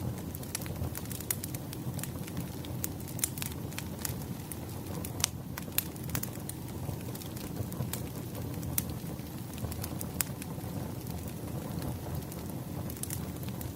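Wood bonfire burning low, crackling with scattered sharp pops over a steady low rumble of the flames.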